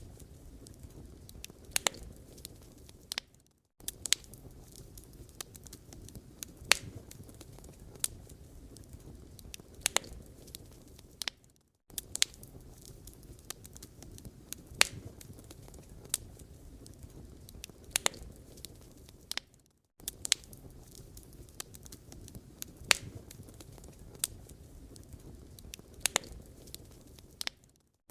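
Wood fire crackling in a fireplace: sharp, irregular pops and snaps over a low steady rumble of burning. The sound drops out briefly to silence about every eight seconds.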